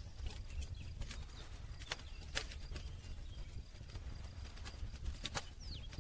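Campfire of burning wood crackling, with sharp irregular pops over a low steady rumble of the flames.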